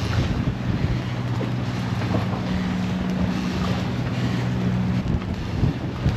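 Wind gusting over the microphone and water rushing past a sailboat's hull under way, over a steady low engine hum.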